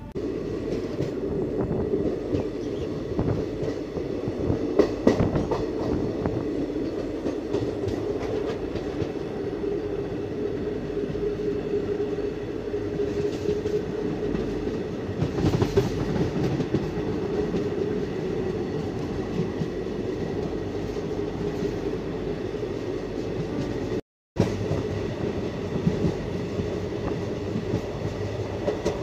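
Moving passenger train heard from an open coach door: a steady rumble of wheels on rails, with clickety-clack of rail joints and scattered louder clacks. The sound drops out for a moment near the end.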